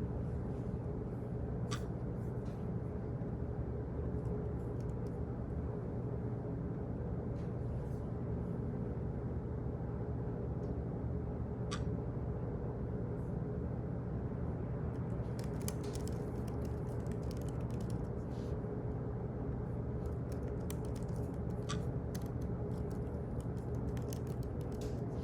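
Office ambience: a steady low hum of room machinery with scattered light clicks, single ones about every ten seconds and quick clusters in the second half.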